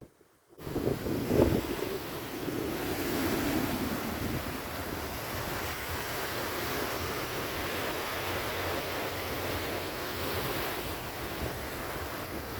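Wind on the microphone, starting about half a second in and gusting hard a second later, over a steady rushing noise.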